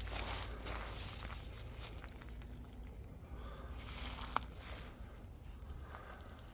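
Irregular rustling and crunching in dry leaf litter, like footsteps moving through the underbrush, with one sharp click or snap about four seconds in.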